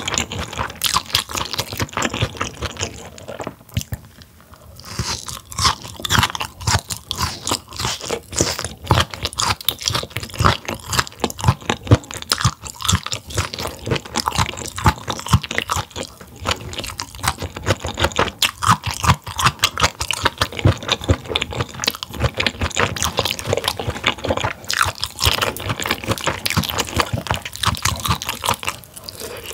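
Close-miked chewing of grilled mullet gizzard: dense, crisp crunching bites, easing off briefly about four seconds in.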